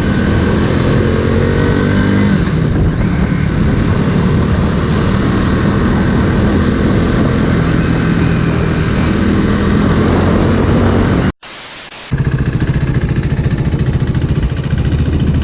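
Motorcycle engine running under way, with heavy wind noise on the microphone; the engine pitch rises over the first two seconds. About eleven seconds in the sound drops out briefly and is replaced by a short burst of hiss before the engine returns.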